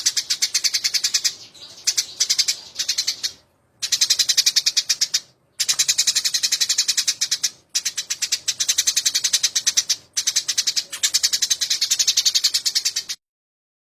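Eurasian tree sparrows (burung gereja) chattering in a fight: rapid, high-pitched chirps, about ten a second, in bursts of one to three seconds with short breaks, cutting off near the end.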